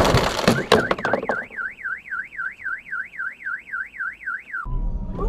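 Car crash impact with crunching and clattering debris, then a car alarm wailing rapidly up and down, about four times a second, that cuts off suddenly near the end.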